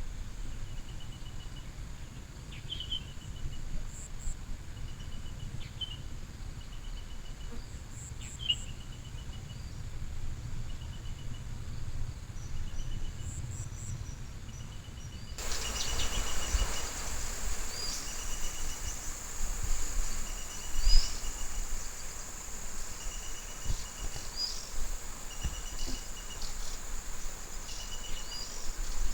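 Rural outdoor ambience. An insect chirps in short pulsed trills about every two seconds over a steady high insect whine, with scattered bird chirps and a low rumble. About halfway through, the background hiss suddenly gets louder, and a single thump comes a few seconds later, the loudest sound here.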